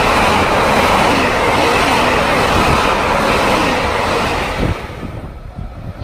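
A JR Hokkaido stainless-steel electric multiple-unit train runs past close along the platform, its wheels and running gear making a loud, steady rush of noise. The noise drops away suddenly about five seconds in as the last car goes by.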